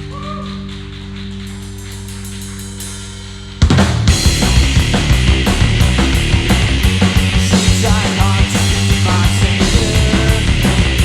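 Live rock trio of electric guitar, bass guitar and drum kit: held guitar and bass notes with a quiet ticking rhythm, then about three and a half seconds in the whole band comes in loud with driving drums.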